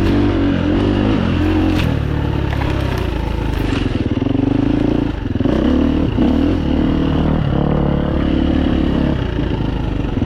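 Four-stroke single-cylinder dirt bike engine running under way, its revs rising and falling with the throttle, with a brief drop in revs about five seconds in.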